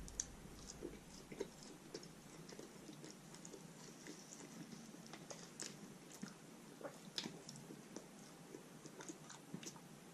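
A person chewing and biting food close to the microphone, faint, with scattered small wet clicks and lip smacks.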